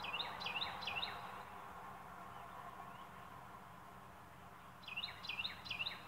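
A songbird singing two short phrases about five seconds apart, each a quick run of about four repeated notes that drop in pitch, over a steady outdoor background hum.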